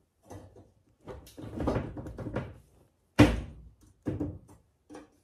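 Headlight assembly being shifted and knocked while it is worked back into place: a stretch of rattling and scraping, then one sharp knock about three seconds in and two lighter knocks after it.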